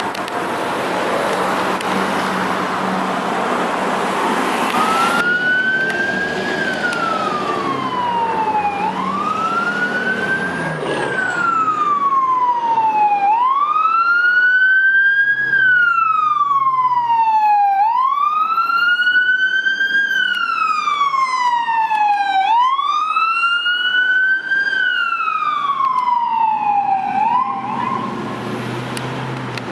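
Fire engine's Federal Q2B mechanical siren wailing, winding up quickly and coasting down again about every four and a half seconds, getting louder as it comes closer. It is preceded by a few seconds of rushing road-traffic noise.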